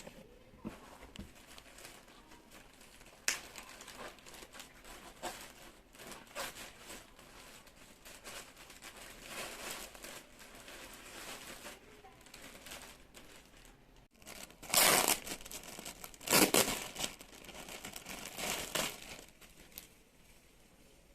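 Packaging being handled by hand, crinkling and rustling irregularly, with a few louder bursts about two-thirds of the way through, as when a parcel is unwrapped.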